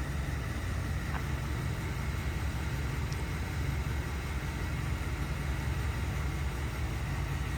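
2013 Ford E350 step van engine idling with a steady low hum.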